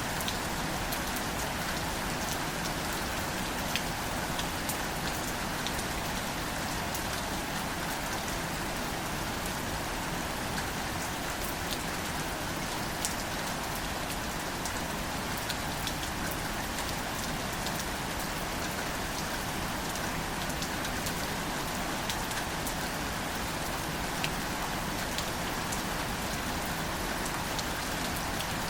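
Gentle rain falling steadily on greater celandine wildflowers, an even hiss with scattered sharper drop ticks.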